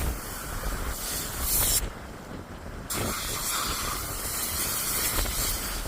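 Gale-force coastal wind with waves breaking on the rocks: a steady rushing hiss with gusts buffeting the microphone. The high hiss cuts out suddenly for about a second, two seconds in.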